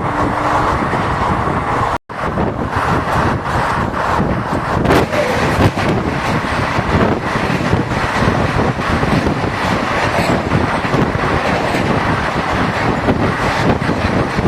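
Passenger train running at speed, heard from aboard the coach: a loud, steady rumble with rattling and clatter. The sound cuts out for an instant about two seconds in.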